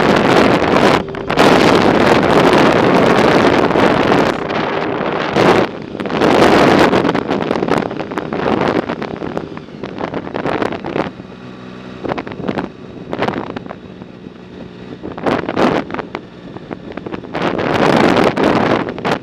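Wind buffeting the microphone of a camera on a moving bicycle, in heavy gusts that ease off for a few seconds past the middle and pick up again near the end.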